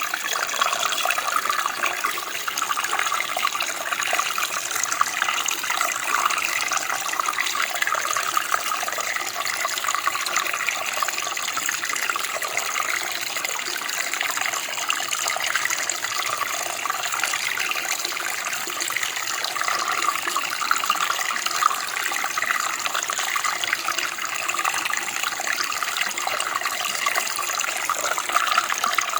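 Running water, a steady splashing flow with a bright, hissy sound and small irregular bubbling.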